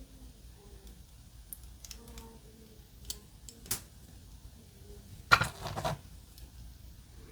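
Small parts of a diecast model car kit clicking as they are handled and fitted together, with one louder rattling clatter lasting under a second about five seconds in.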